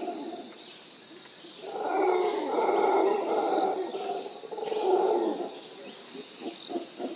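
A low, drawn-out howling voice swells twice. Near the end a quick rhythmic pulsing starts, about three pulses a second.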